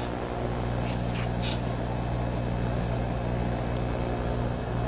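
Home-made microwave gun running with a steady, deep electrical hum. A couple of brief hissy bursts come through about a second in.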